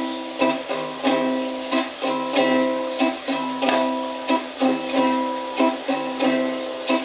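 Instrumental intro of a slow song: chords strummed on a ukulele-like plucked string instrument in a steady, even rhythm, each chord ringing on until the next.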